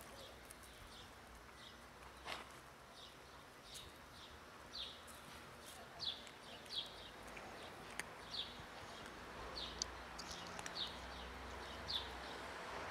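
A small bird calling over and over: short, high, falling chirps, one every half second to a second, with a couple of faint clicks among them.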